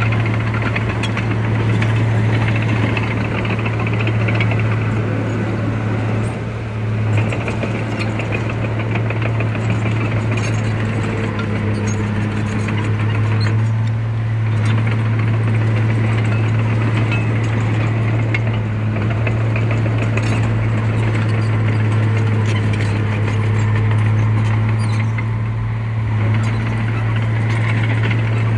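Heavy diesel engine of earthmoving machinery running steadily under load, with a low drone and a continuous rapid clatter.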